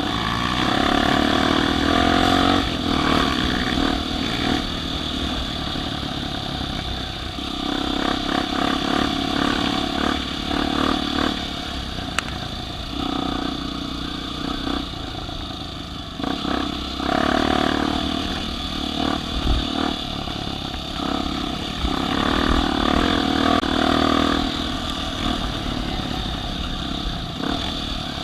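Off-road vehicle engine revving in repeated bursts, rising and falling as it works through the course.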